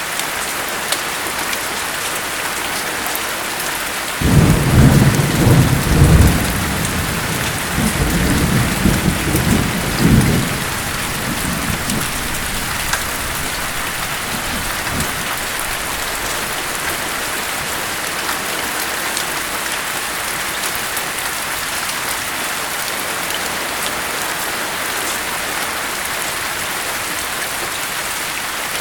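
Steady heavy rain with a roll of thunder that breaks in suddenly about four seconds in, rumbles in several surges and fades out after about ten seconds.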